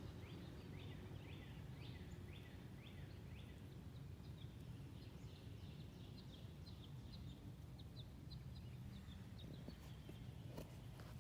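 Faint bird song: a run of repeated falling notes about two a second that quickens into shorter, quicker notes, over a steady low hum.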